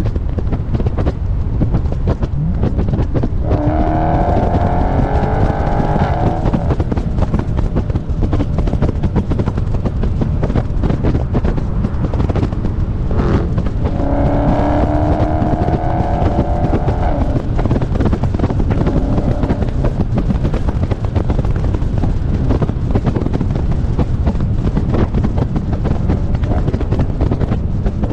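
Dodge Charger Scat Pack's 392 HEMI V8 running at speed, with a steady low rumble and wind rushing over the microphone. Twice, about 3 seconds in and again about 14 seconds in, the engine note climbs for a few seconds as the car accelerates hard.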